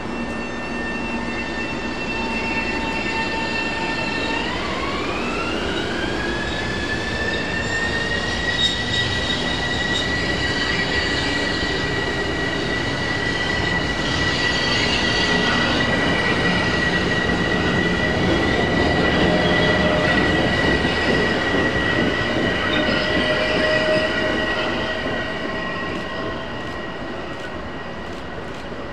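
A train passes close by. A high-pitched whine glides up in pitch about four seconds in, then holds steady over the rumble of the wheels. The sound grows loudest about twenty seconds in and fades near the end.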